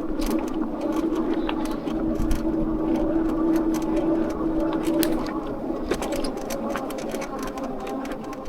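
Electric bike's motor whining steadily under pedal assist. The bike rattles and clicks irregularly over a rough country lane. The whine is strongest until about five seconds in, then eases.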